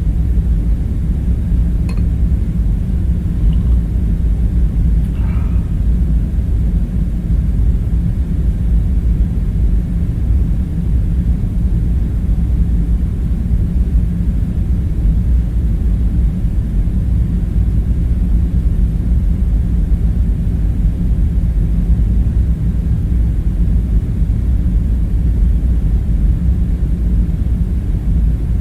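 Steady low ambient rumble, with a faint click about two seconds in and a brief faint sound about five seconds in.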